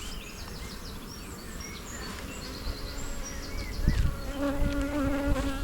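Honeybees buzzing around an open hive. About four seconds in a louder, steady buzz sets in over the general hum.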